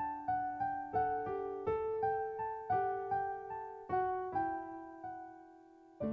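Instrumental piano background music: a gentle melody of single struck notes at an even pace, the last one left to ring and fade out before a new chord is struck at the very end.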